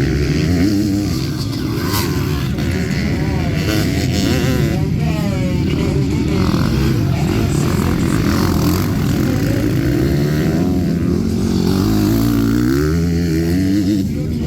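Motocross bike engine revving up and down repeatedly, pitch climbing and dropping, with a long rising rev near the end.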